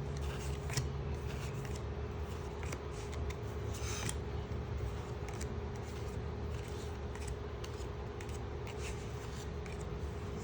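Pokémon trading cards being handled and flipped through, with soft rustles, slides and small clicks of card against card and pack wrapper, over a steady low hum.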